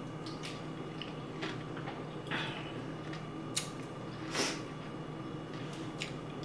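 Eating noises: a few short wet smacks and clicks of chewing and a spoon, the loudest about four and a half seconds in, over a steady faint hum.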